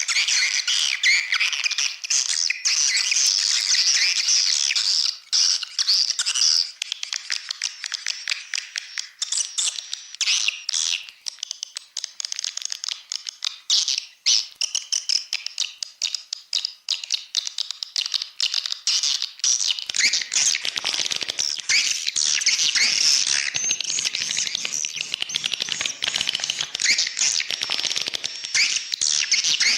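Edible-nest swiftlet calls from a swiftlet-house lure recording: a dense, continuous chorus of rapid high chirps and twitters, made to draw swiftlets in at the entrance hole. About two thirds of the way in, the recording becomes fuller, with a lower rustle under the chirps.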